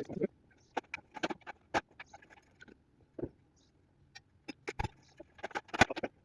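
Irregular light knocks, taps and clicks of hand work on wooden logs, with a sharper knock about five seconds in and a cluster of louder ones near the end.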